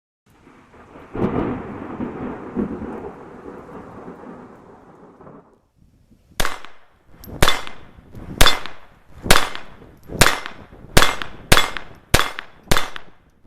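A rumbling noise for about four seconds, then about ten sharp shots from a Llama Especial .22 LR pistol, spaced irregularly about half a second to a second apart, each with a short ringing tail.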